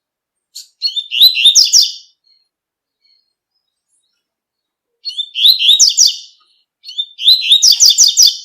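Double-collared seedeater (coleiro) singing in the tui-tui song style: three short phrases of rapid, clipped, high notes, the first about half a second in, the other two close together near the end.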